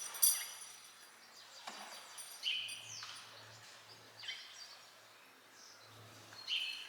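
Birds chirping: a few short, separate calls with quick falling notes, spaced a second or more apart. A short clatter sounds right at the start.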